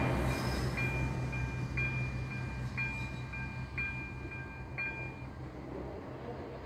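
Train rumbling past and fading away while the crossing's ZV-02 warning bell keeps striking a ringing tone about twice a second. The bell stops about five seconds in, as the crossing switches off after the train.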